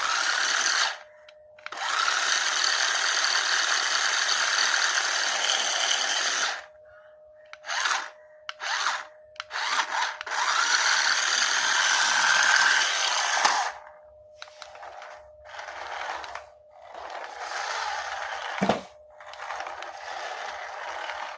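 Small battery-powered toy motor and plastic gears whirring in on-off bursts, some a few seconds long and some brief, over a faint steady hum.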